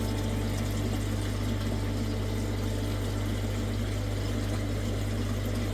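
Pond filter pump running with a steady low hum.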